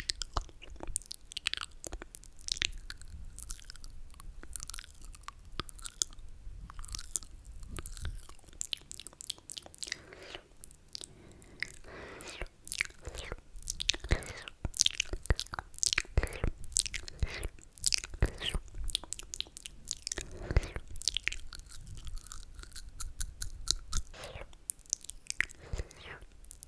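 Close-miked ASMR mouth sounds: rapid, irregular wet clicks and smacks with a few longer slurps.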